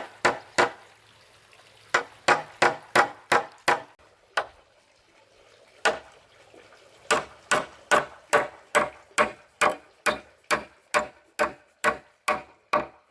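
Hand tool striking wood in repeated sharp blows: a few short runs, then a steady series of about two to three blows a second from about seven seconds in.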